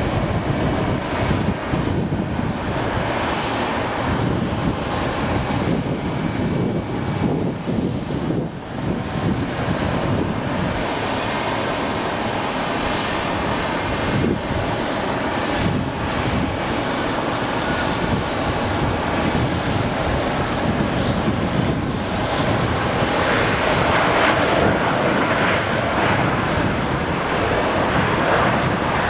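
Jet airliner engines making a steady rushing roar, with a faint high whine, growing louder and brighter near the end as the aircraft passes closer.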